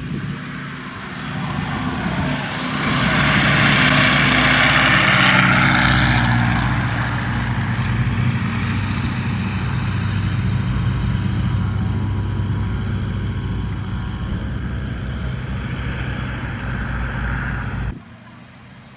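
Boeing Stearman PT-13's Lycoming R-680 nine-cylinder radial engine and propeller running loud as the biplane passes close by. The pitch drops as it goes past, then the sound fades as it moves away, and it cuts off abruptly near the end.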